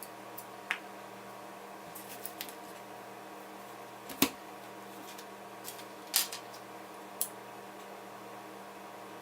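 Scattered light clicks and taps from small screws and tools being handled during laptop reassembly, about eight in all, the loudest about four and six seconds in, over a steady electrical hum.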